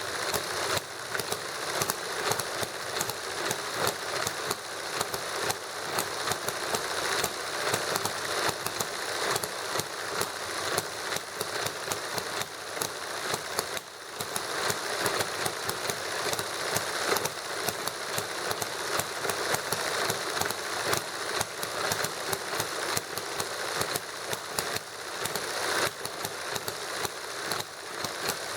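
A model hit-and-miss gasoline engine running together with a model Stirling engine, giving a steady stream of sharp, rapid clicks and small pops.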